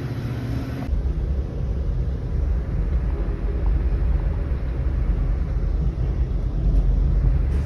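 Steady low rumble of a diesel commuter train, growing slightly louder.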